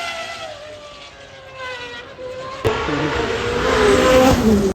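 High-performance car engines going past at speed. The first fades with a falling pitch, a sharp click comes about two and a half seconds in, then a second car comes up loud and drops in pitch as it passes near the end.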